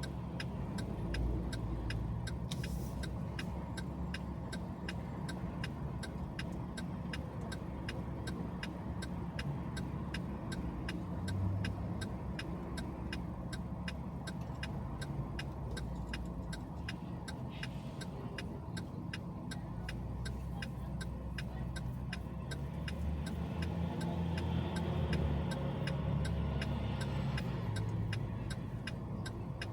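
Car driving at road speed: a steady low rumble of engine and tyre noise, with a faint, evenly spaced ticking.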